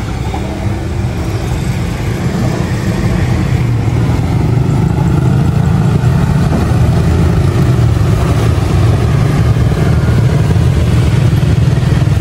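A motor vehicle engine running steadily with a low rumble, growing gradually louder over the first several seconds and then holding steady.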